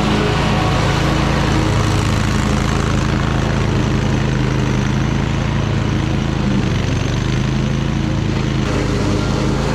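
Toro Titan Max zero-turn mower engine running steadily while mowing, its pitch dipping slightly about two-thirds of the way through.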